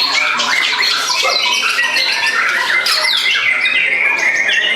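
White-rumped shama (murai batu) singing loudly and without pause: a rapid run of varied whistles, steep falling sweeps and rattling phrases, overlapped by other songbirds singing at the same time.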